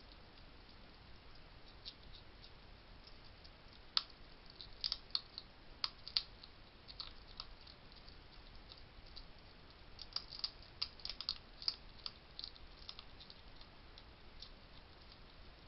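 Wild hedgehog eating at a feeding station: irregular crisp crunching clicks, bunched in two busy spells with sparser clicks between.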